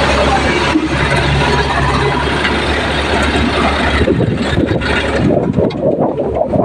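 Heavy diesel engine running steadily; about four seconds in its steady note drops away and rough, uneven noise takes over.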